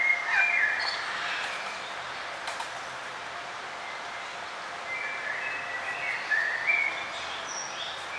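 Small songbirds chirping in short, gliding phrases, a burst at the start and more about five to seven seconds in, over a steady background hiss of outdoor ambience.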